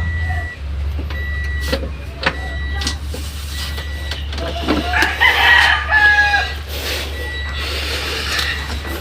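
Toyota Vios petrol engine idling steadily after a restart. A rooster crows loudly about five seconds in.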